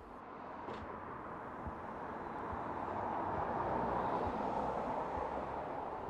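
Road traffic noise: a steady rush that grows louder over about four seconds and then eases a little, as a vehicle approaches and passes.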